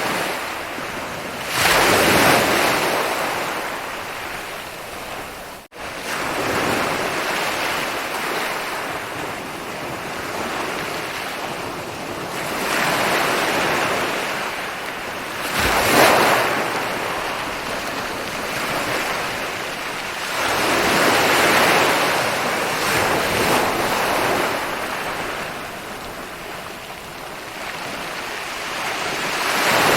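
Ocean surf breaking and rolling up a beach, swelling and ebbing every several seconds, with the sharpest break about halfway through. The sound cuts out for an instant about six seconds in.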